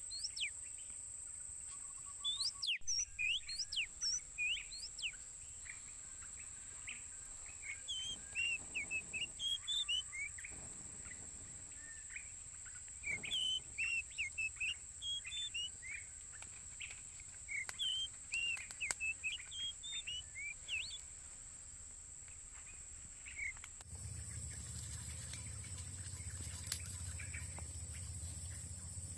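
Small birds chirping, many short curved notes that rise and fall, over a steady high-pitched tone. A few seconds before the end the chirping stops and a low rumble with a broader hiss takes over.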